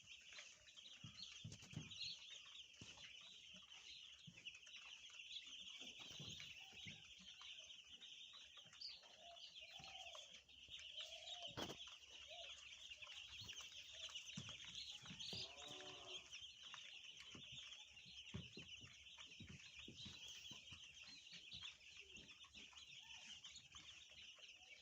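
Faint, continuous chorus of many two-day-old broiler chicks peeping at once, with a few lower calls now and then.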